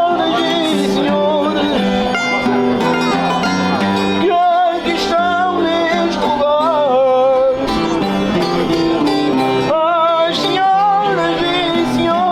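Folk singing in phrases, accompanied by plucked string instruments and an accordion.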